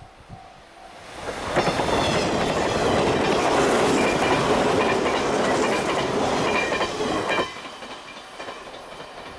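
A 485-series electric limited-express train passing close at speed: a loud rush of wheels on rail with clickety-clack and a high whine, building about a second in and cutting off sharply about seven and a half seconds in. A faint repeating beep is heard before the train arrives.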